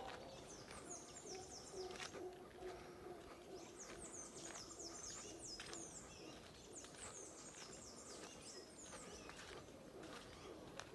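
Faint birdsong: quick runs of high, falling chirps, coming in three bursts of about two seconds each.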